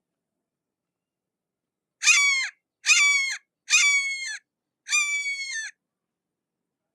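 A hawk calling: four harsh, scratchy calls about a second apart, each dropping in pitch at its end.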